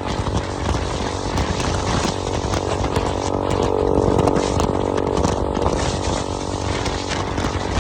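Motorcycle engine and exhaust running at a steady pitch while riding, with wind rumble on the microphone.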